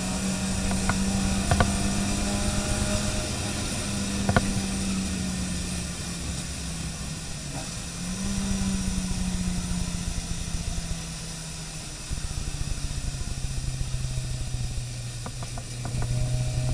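Car engine running under way, heard from inside the cabin, with a steady hiss of tyres on a wet track. The engine note swells and eases, then drops to a lower steady note about thirteen seconds in. A couple of sharp knocks come in the first few seconds.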